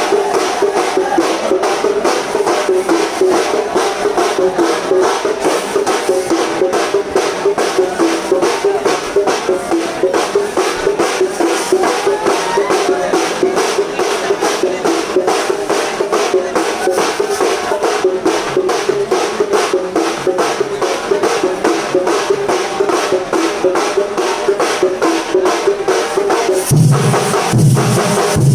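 Kerala Thambolam percussion band playing: fast, dense drumming with cymbals over a steady pitched tone, and heavy bass drum beats joining in near the end.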